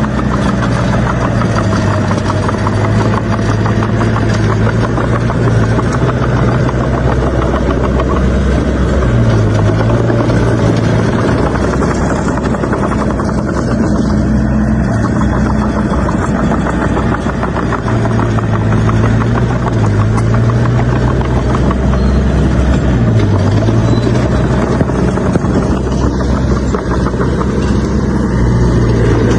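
Heavy earthmoving machine's diesel engine running under work, its pitch rising and falling repeatedly as the load changes.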